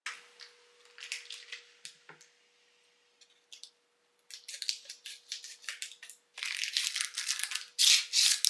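Crisp crunching and crinkling noises, sparse and irregular at first, then quick and dense from about halfway, and loudest near the end. A faint steady hum runs underneath.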